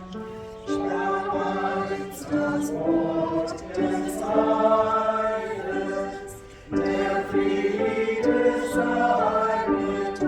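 Church choir singing a sacred piece in several voice parts at once, in sustained phrases with short breaks between them, about half a second in and again near seven seconds.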